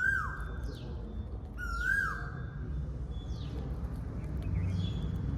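A bird, which the uploader calls a cuckoo, calling repeatedly. Each call is a whistled note held briefly and then sliding quickly down, heard at the start and again about two seconds in, and high short falling chirps carry on more faintly after that. A low rumble of background noise rises near the end.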